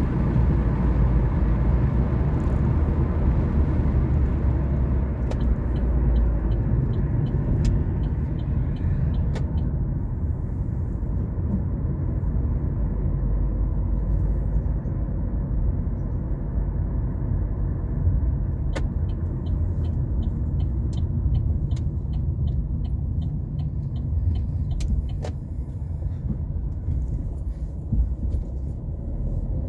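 Car driving on the road, with a steady low rumble of engine and tyres that eases off a little near the end. Two runs of light, regular ticking, about two to three a second, come in over it: one a few seconds in and one in the second half.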